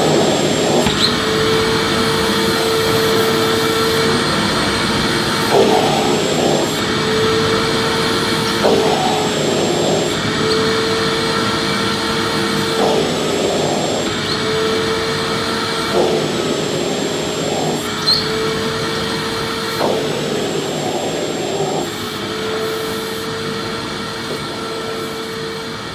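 Vacuum cleaner running steadily, with a motor hum and a high whine. Every few seconds its pitch dips briefly with a short rush of noise, and it gradually gets quieter over the last few seconds.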